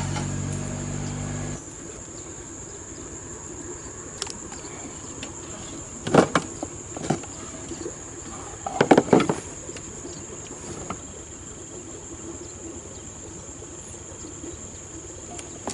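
Insects chirring with a steady high-pitched buzz. A low steady hum cuts off about one and a half seconds in. Two short, sharp noises come about six and nine seconds in, the second made of a few quick strokes.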